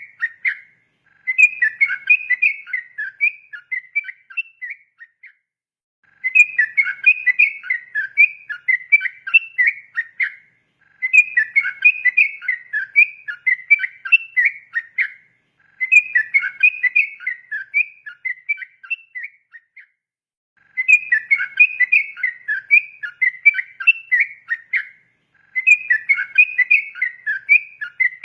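Yellow-vented bulbul (trucukan) singing its long, rapid 'ropel' song: fast runs of clear chirping notes in phrases of about four to five seconds, each followed by a pause of about a second, over and over.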